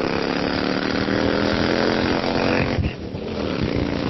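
Harley-Davidson Ultra Limited's V-twin engine pulling hard and rising in pitch. It briefly drops in level and pitch about three seconds in, as at a gear change, then climbs again.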